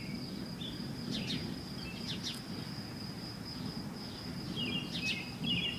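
A distant, constant roar in the sky, like thunder that doesn't stop, of unknown origin: the recordist rules out a train. An insect's steady high trill and scattered bird chirps sound over it.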